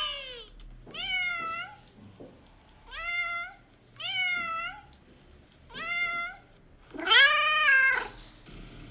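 Domestic cat meowing repeatedly: about five separate meows with short pauses between them, the last, near the end, longest and loudest.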